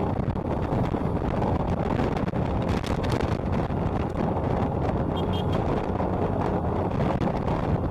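Wind rushing over the microphone of a moving motorcycle, with the motorcycle's engine and road noise running steadily underneath.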